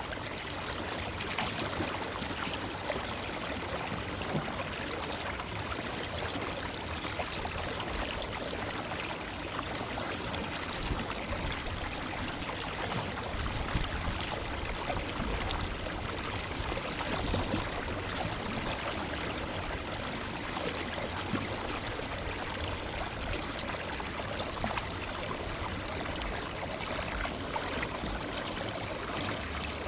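Forest river flowing over stones, a steady rush of water with gurgling.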